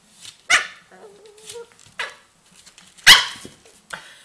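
A puppy barking: two loud sharp barks about two and a half seconds apart, with softer yips and a brief whine between them.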